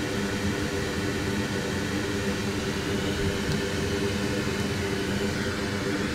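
Steady whir of an electric fan with a low, even hum and hiss that does not change.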